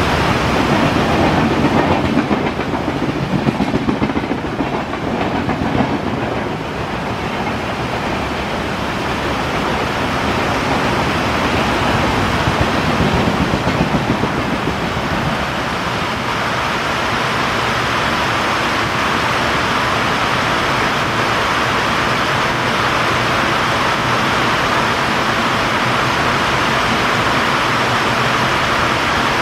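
Passenger coaches of an express train passing at speed, their wheels clattering over the rail joints, in heavy rain. After about fifteen seconds the last coach has gone by and a steady rain hiss remains as the train draws away.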